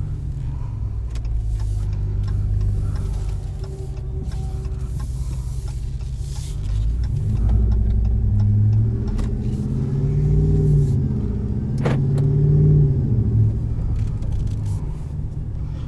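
Ram 1500's 5.7 L V8 through its aftermarket Carven exhaust, pulling under acceleration while driving: the engine note rises and falls a few times in the second half as it revs and shifts.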